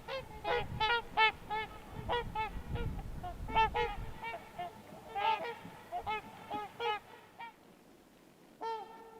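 Trumpeter swans calling: a flock giving many short, horn-like honks in quick succession, thinning out after about seven seconds to one last call near the end. A low rumble runs underneath for the first few seconds.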